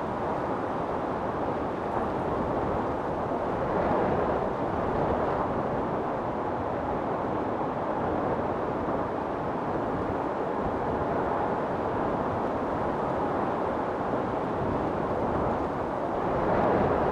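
Storm wind blowing hard and steadily as a dense rushing noise, swelling in gusts about four seconds in and again near the end.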